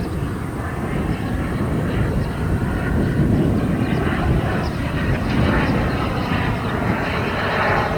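Radio-controlled model jet's turbine engine running: a steady jet rush with a faint, steady high whine.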